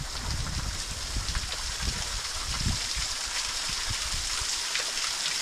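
Steady rush of flowing water, with irregular low thumps and rumbles on the microphone.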